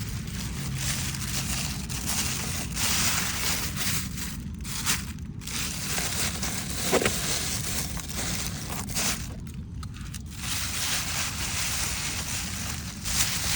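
Plastic sheeting rustling and crinkling as it is handled, with a sharp click about halfway through.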